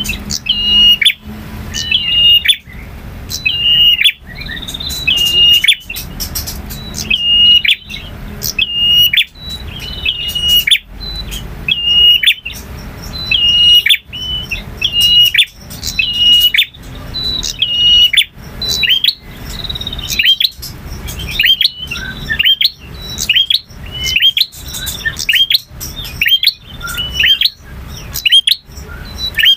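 Male prinia (prenjak) singing: loud, sharp repeated notes about once a second, changing in the second half to quicker notes that sweep upward in pitch.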